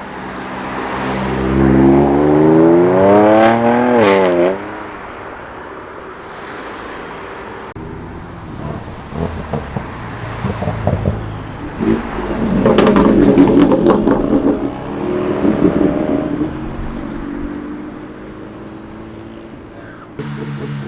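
Cars with tuned engines accelerating hard. The first engine climbs steadily in pitch and cuts off sharply about four seconds in. Later come a run of sharp cracks and a second loud engine burst, after which the engine note falls away.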